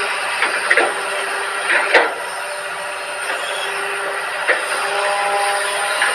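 Excavator running steadily, its engine and hydraulics making a constant drone with a few held whining tones, broken by a few sharp metallic clanks and squeals, the loudest about two seconds in.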